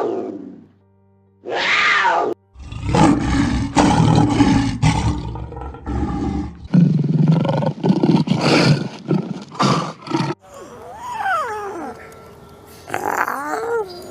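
Big cat roaring: two long, loud, rasping roars after two short calls that fall in pitch. Near the end come thinner calls that glide up and down.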